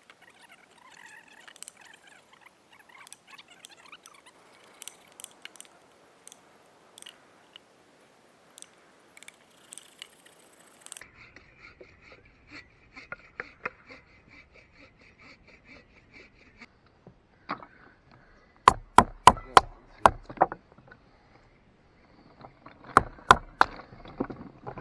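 Batoning: a wooden baton striking the spine of a knife to drive it through a hardwood log. Two quick runs of sharp knocks, about six in a row past the middle and a few more near the end, after faint clicks and rustling.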